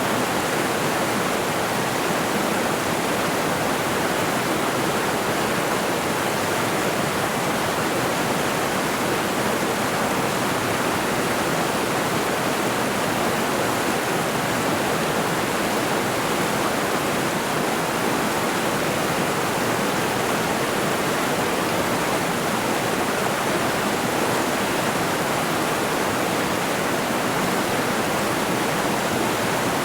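Mountain river rushing over rocks: a steady, even roar of flowing water with no breaks or changes.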